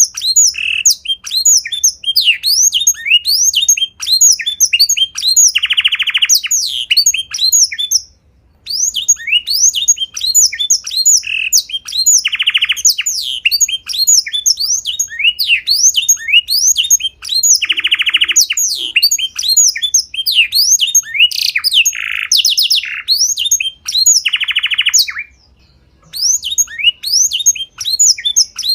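Small songbird singing a fast, continuous run of sharp, high chirps, broken about every six seconds by a short buzzy trill. The song stops briefly twice, about eight seconds in and near the end.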